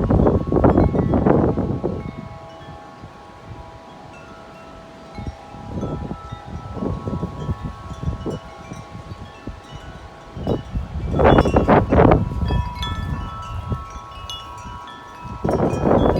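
Wind chimes ringing in strong wind, several long sustained tones overlapping, while gusts buffet the microphone at the start, about eleven seconds in and near the end.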